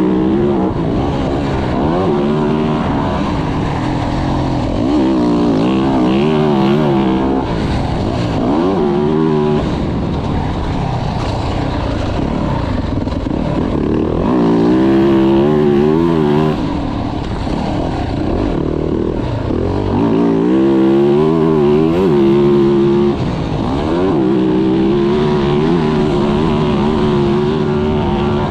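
2024 Yamaha YZ450F's single-cylinder four-stroke motocross engine being ridden hard, its pitch rising and falling every second or two as the throttle opens and closes through the track's turns and jumps.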